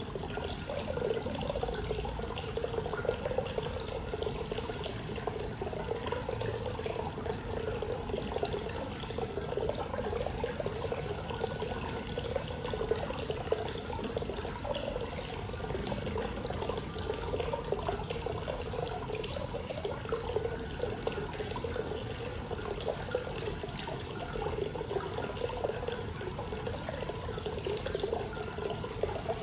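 Hot-spring water running steadily into a bath: a continuous, even flow of pouring water.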